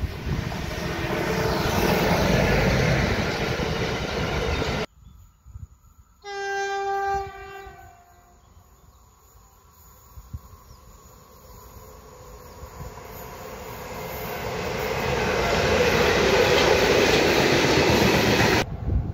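Freight trains passing on an electrified main line. A train of tank wagons rolls past close by and cuts off about five seconds in. Soon after, a distant electric locomotive sounds its horn once for about a second and a half, then a second freight train of Talbot hopper wagons approaches and rumbles past loud near the end.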